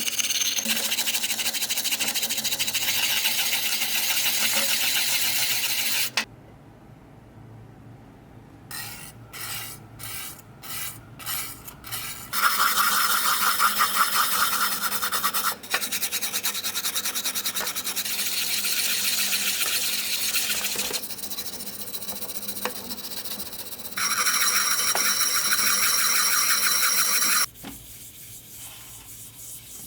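Abrasive scrubbing and rasping on corroded brass. Several cut-together passes: long stretches of steady rasping, a run of six short strokes about a third of the way in, and a louder, higher-pitched stretch near the end.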